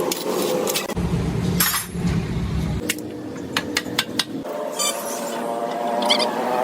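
Metal clinks and sharp knocks from workshop tools and engine parts, with a low rumble for about two seconds near the start.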